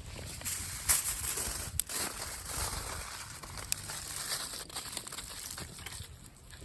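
Aluminium foil crinkling and crumpling as it is wrapped by hand, with irregular sharp crackles.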